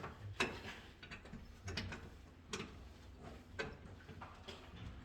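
Irregular small clicks and knocks of hand tools at electrical wiring work, about one a second, some of them ratcheting.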